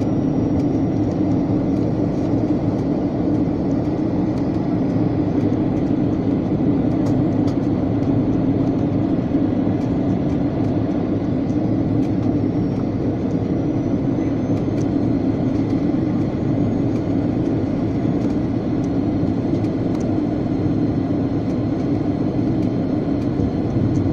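Steady roar inside an airliner's cabin in flight: engine noise and rushing air, even in level throughout.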